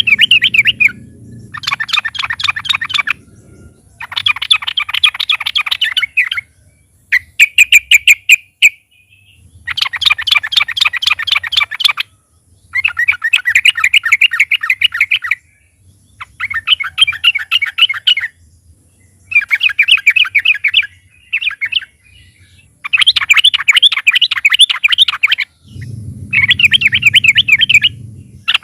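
Yellow-vented bulbul (trucukan) singing loudly in repeated bouts of fast, bubbling chatter, each lasting one to three seconds with short pauses between them, over a faint low hum.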